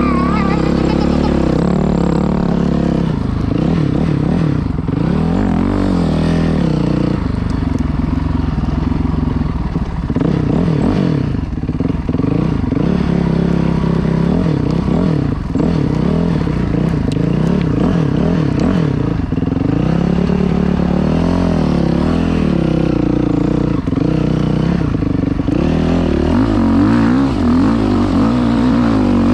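Dirt bike engine running hard while being ridden, its pitch rising and falling again and again with the throttle and gear changes.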